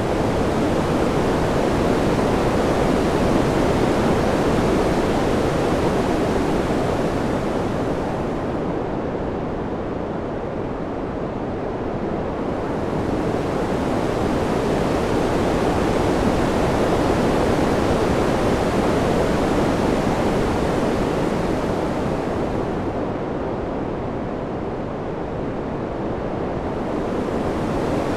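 A steady rushing wind sound that swells and eases slowly. Its hissing top dulls twice, about a third of the way in and again near the end, then brightens again each time.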